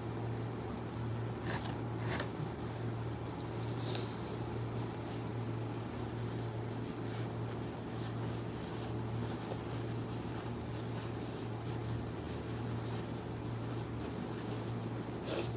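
A steady low hum with faint room noise and a few soft clicks in the first few seconds.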